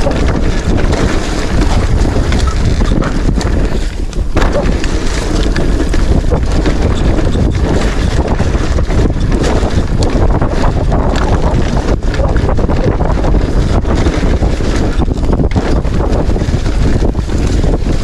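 Loud, steady wind buffeting on the microphone over a low rumble, with no clear breaks.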